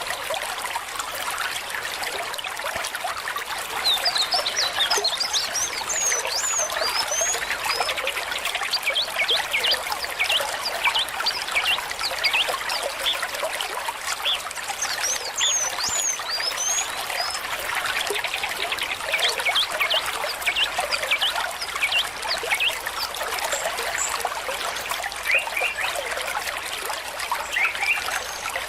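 Small stream trickling and burbling steadily, with a constant wash of running water full of quick little gurgles and bloops.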